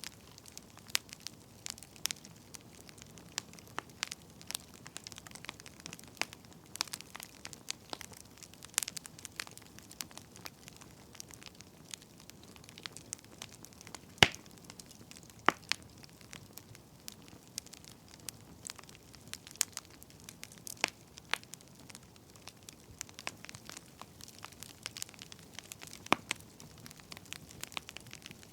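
Wood fire crackling: irregular sharp pops and snaps over a soft hiss, with two louder pops about halfway through.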